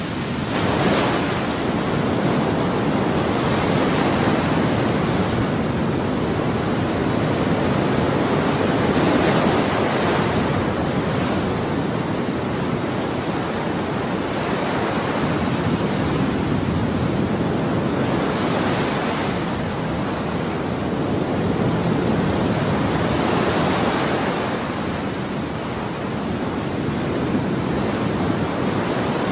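Ocean waves breaking and washing on a shore, a continuous rushing hiss that swells and ebbs every few seconds as each wave comes in.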